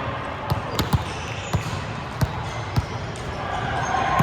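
Volleyballs being struck and bouncing on the court, six or so scattered thuds in the first three seconds, over the steady background noise of an indoor sports hall.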